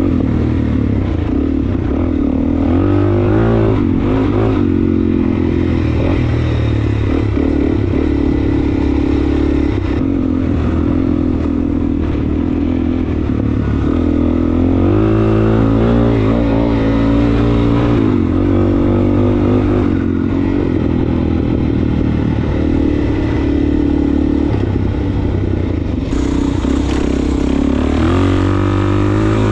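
Suzuki DR-Z400S single-cylinder four-stroke engine running under way, its pitch rising and falling repeatedly as the throttle is opened and closed.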